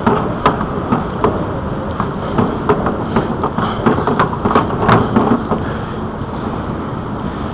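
Steady wind and rolling noise from a bicycle ride on a trail, with irregular sharp clicks and knocks of the bike rattling over the surface for the first five seconds or so.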